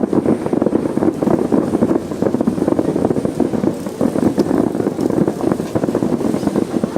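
Distant fireworks display with many shells bursting in quick succession, running together into a continuous stream of booms and crackles.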